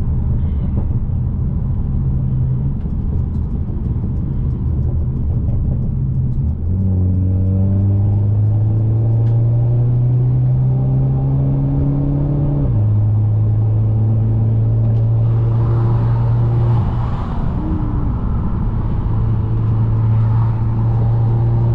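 Mercedes-Benz C250's turbocharged engine heard from inside the cabin: it runs steadily at first, then from about a third of the way in pulls with its pitch climbing slowly for about six seconds. The pitch drops sharply at an upshift a little past halfway and then holds steady over the road noise.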